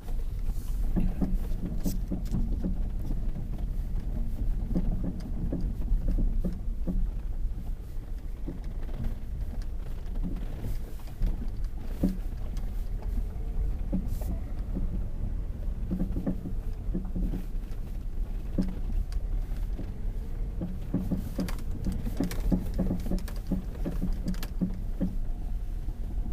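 Inside a Lada Vesta's cabin on a rough road: a steady road and engine rumble with scattered knocks and rattles as the wheels go over bumps. The knocking is typical of the suspension clunk the owner is chasing at 45,000 km, which he says is no longer the engine mount.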